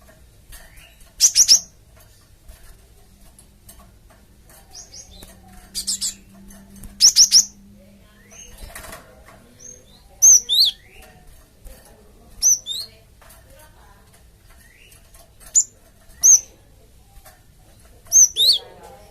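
Cinereous tit (gelatik batu) calling: sharp, high notes in quick groups of two or three, then whistled notes that slide downward, repeated every few seconds.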